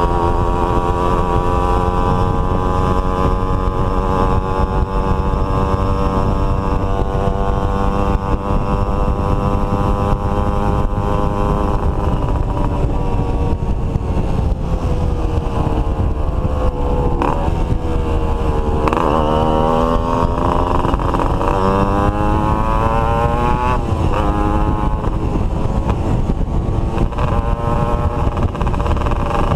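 Several two-stroke motorcycle engines running together at speed. Their pitch sinks and rises again around two-thirds of the way through and once more shortly after, as the throttle is eased and opened.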